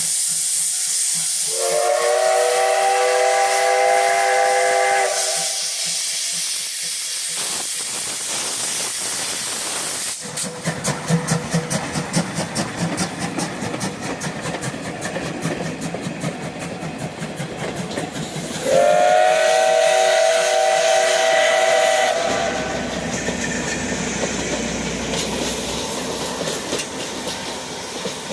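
The C12 66 steam tank locomotive hisses steam and blows two long whistle blasts, one near the start and one about two-thirds of the way in. From about a third of the way in it sets off, with a fast, even beating and a low rumble under the hiss.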